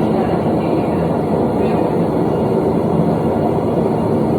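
A forge running with a steady, even rushing noise and no hammer blows.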